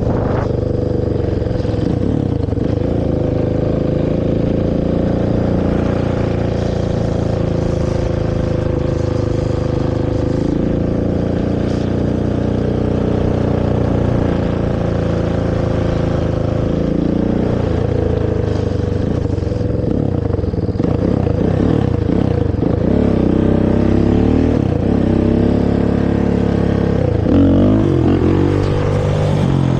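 Honda TRX450R quad's single-cylinder four-stroke engine through its stock exhaust: steady running for about the first half, then revving up and down over and over through the second half as the throttle is worked.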